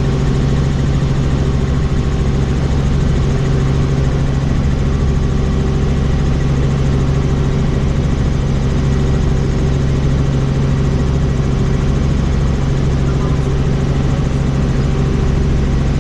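Helicopter in flight, heard on board: a steady, loud drone of rotor and engine with constant tones over a deep rumble.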